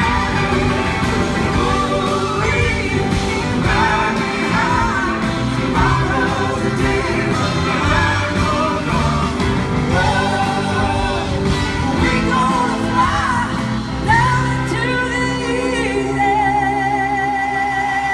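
Live rock band playing at full volume, with a lead melody that slides and bends in pitch over the band, ending on a long held note with vibrato.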